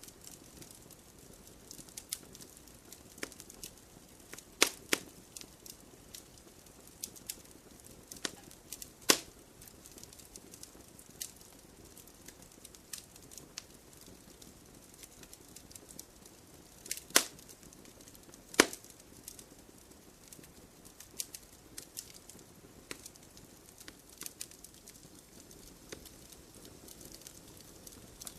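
Campfire wood burning in a stone fire pit: irregular sharp crackles and pops over a soft low rustle of flame, with a few louder pops, the biggest about 9, 17 and 18 seconds in.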